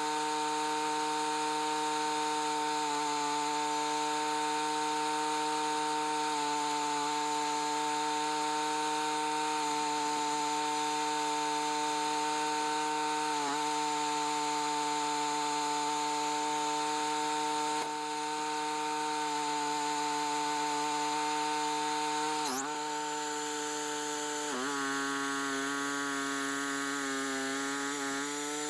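Sawmill running under load as it saws boards off a maple log: a steady machine hum of several evenly spaced tones, with a brief dip in pitch a little over twenty seconds in and a slightly lower, wavering pitch near the end.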